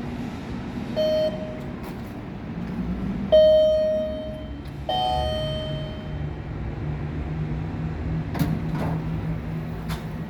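Dover elevator chime sounding three times: a short beep about a second in, then two ringing dings that fade out, the last one two-toned. A steady low hum follows, with a few sharp clicks near the end.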